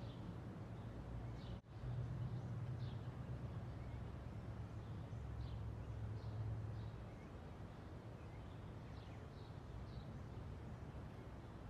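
Faint outdoor ambience: small birds chirping now and then, short high calls, over a low steady hum that fades about seven seconds in.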